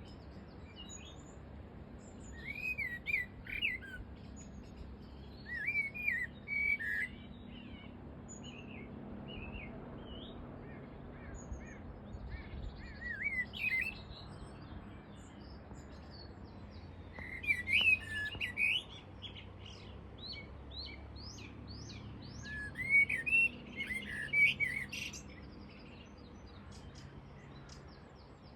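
Common blackbird singing: short fluting, warbling phrases with pauses of a few seconds between them, some ending in high scratchy twitters.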